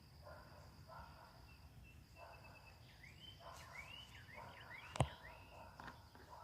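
Faint birdsong in a backyard: short chirps and a run of curving, rising-and-falling whistled notes, over a steady high tone. One sharp click about five seconds in.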